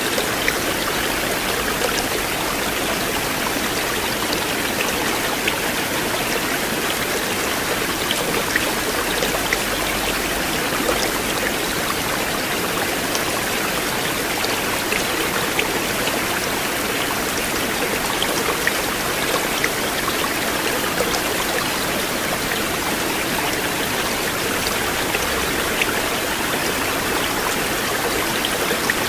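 River water flowing in a continuous, even rush, with many small sharp splashes scattered through it.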